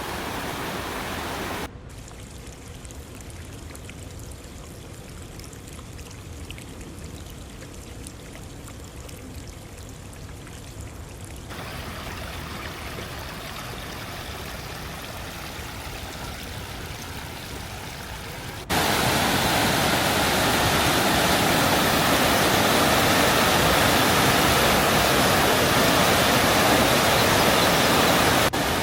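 Rushing mountain water, a steady hiss and roar of flowing water with no distinct events. Its loudness changes abruptly three times: it drops about two seconds in, rises a little near the middle, then jumps to its loudest about two-thirds of the way through.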